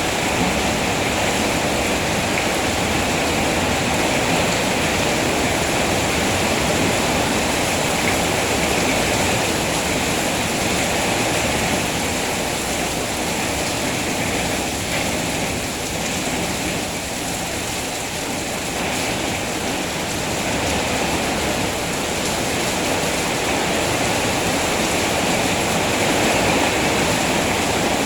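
Steady rainfall, an even, dense hiss that eases slightly for a few seconds around the middle.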